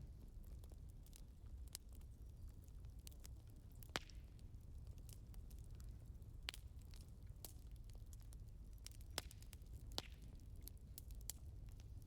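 Firewood burning: faint, irregular crackles and pops over a low steady rumble, with the sharpest pops about four seconds in and again near ten seconds.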